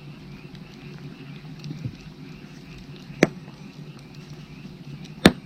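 Firewood burning with two sharp pops, one a little past three seconds in and a louder one near the end, over a steady chorus of frogs.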